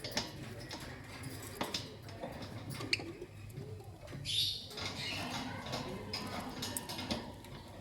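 Lovebirds chirping in short, scattered squeaks and clicks, with a brief harsh, hissing call a little past four seconds in.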